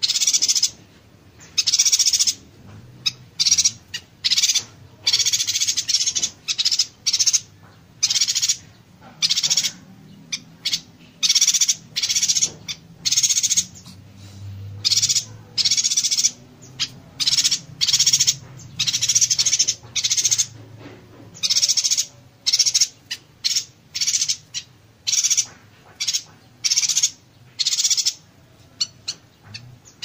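Yuhina song in the rapid-fire 'konslet' style: dense, high-pitched chattering bursts, each under a second or so, delivered one after another with only short gaps between them.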